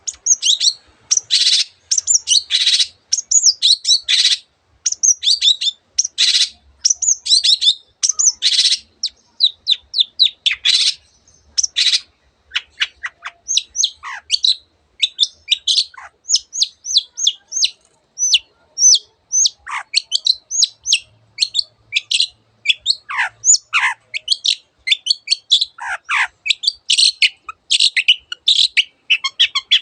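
Long-tailed shrike singing a fast, varied song of high chirps and warbles, the mimic's song of a cendet borrowing other birds' calls. About halfway it changes from dense warbling bursts to a quick series of separate chirps with several sharp falling notes.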